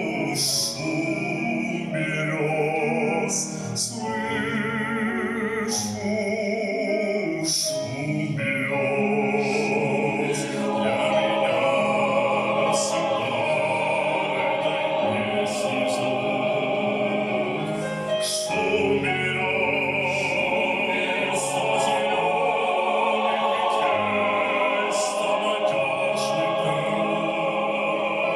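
Choir singing a slow song, the voices held with a wide vibrato.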